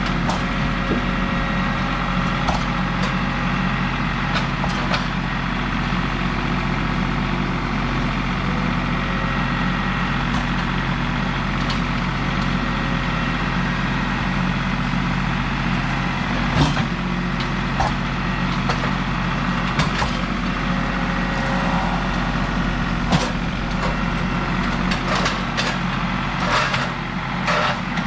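Engine idling steadily, with a few sharp knocks and clicks about midway and near the end.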